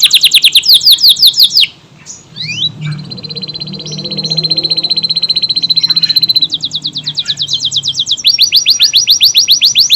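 Domestic canary singing: rapid tight trills of repeated high notes, a short break about two seconds in, a few quick rising notes, then a long held note. The fast trills come back and speed up near the end.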